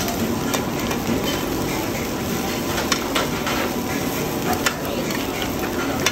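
Oyster omelette frying on a large pan: a steady sizzle, with a few sharp clicks of metal spatulas scraping and tapping the pan as the omelette is turned and broken up.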